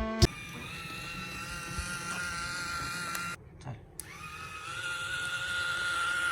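Small DC electric motor of a homemade toy motorcycle running with a steady high whine; it cuts out briefly midway, then spins back up, rising in pitch before holding steady.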